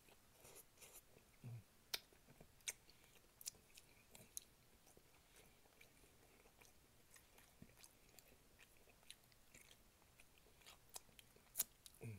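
Faint close-up chewing and lip-smacking of someone eating braised oxtail, with scattered sharp wet mouth clicks.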